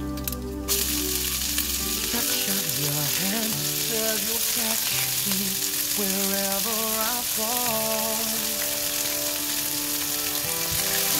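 Hot oil sizzling in a nonstick wok as shredded cabbage fries with curry leaves and garlic. The sizzle starts abruptly under a second in, then holds steady.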